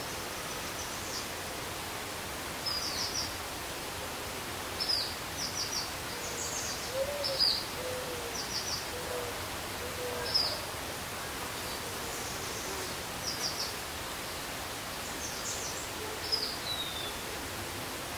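Wild birds calling over a steady hiss: scattered short high chirps, several in quick runs of three, and a series of low hooting notes that step down in pitch from about six to ten seconds in.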